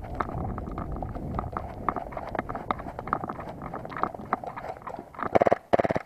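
Footsteps of a player moving quickly over the ground as an airsoft game begins. Near the end there are two loud bursts of rapid rattling.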